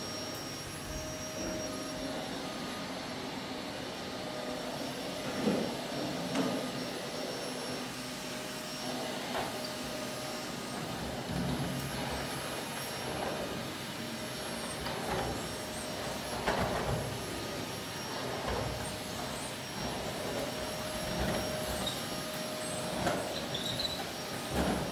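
Vacuum cleaner running steadily, with irregular knocks and scrapes of the nozzle and hose being moved about.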